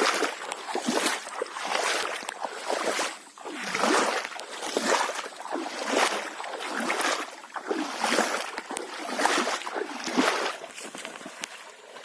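River water swishing and splashing in a steady rhythm, one surge about every second, as something moves through it.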